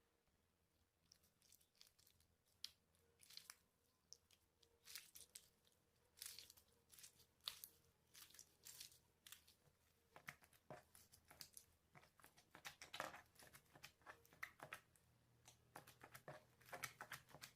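Slime being squished and mixed by hand: quiet, irregular sticky clicks and crackles, sparse for the first few seconds and then coming thick and fast.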